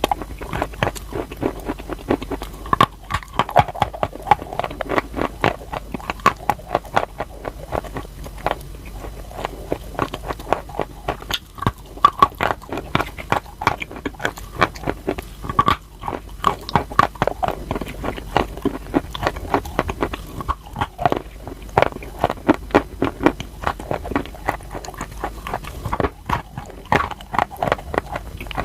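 Crunchy chalk being bitten and chewed close to the microphone: a steady run of sharp, dry crunches, two or three a second.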